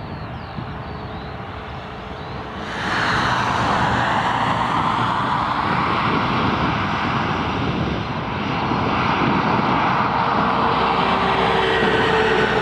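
Airbus A320 airliner's jet engines at take-off power. The noise jumps sharply louder about three seconds in, then holds steady.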